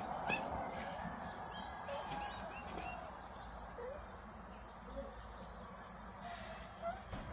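Faint high bird chirps scattered over steady background noise, most of them in the first few seconds, with a few lower short calls later on.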